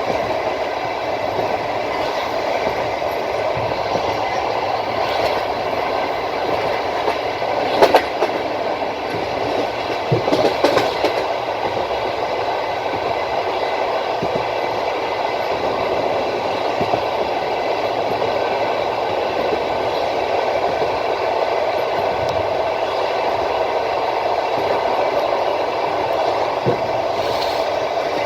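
Passenger train wheels running on the rails: a steady rolling noise, with a few sharper clacks over rail joints about eight seconds in and again around ten seconds in.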